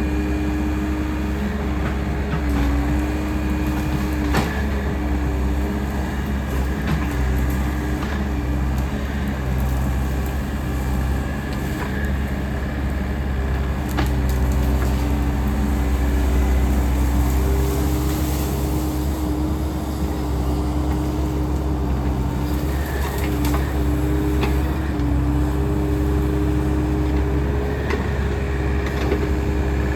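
Takeuchi machine's diesel engine working steadily under load. Its hum shifts and breaks as it works, with a few sharp cracks scattered through.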